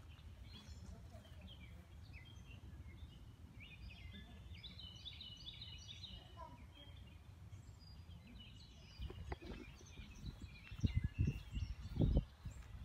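Small birds chirping and singing in short repeated notes over a steady low outdoor rumble. From about two-thirds of the way through, irregular low bumps and thuds on the microphone.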